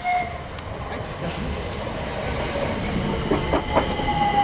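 Electric multiple-unit train running through the station, its wheels on the rails growing steadily louder, with a whine that slowly falls in pitch near the end.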